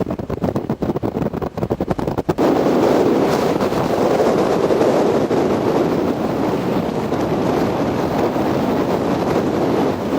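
Strong wind buffeting the microphone, at first in rapid choppy flutters, then about two seconds in settling into a loud steady rush.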